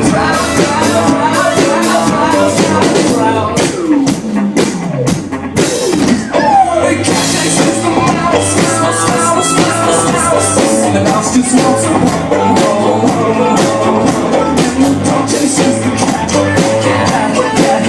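Live band playing an up-tempo rock song with a steady drum beat, heard through a phone's microphone. There are sliding pitch glides a few seconds in, then a bright splash of cymbal noise near the middle.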